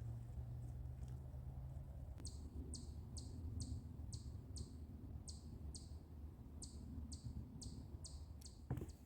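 A songbird calling from the woods: a steady series of short, high, down-slurred notes, about two a second, starting about two seconds in and running for some six seconds, over a low steady rumble. Footsteps on the trail begin at the very end.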